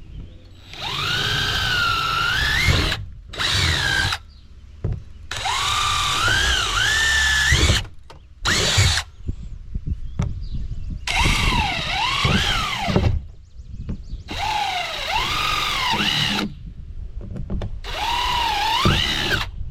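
Power drill boring drain holes in an old dishwasher's tub, run in about seven separate bursts. The motor's whine rises and falls in pitch as the bit bites and breaks through.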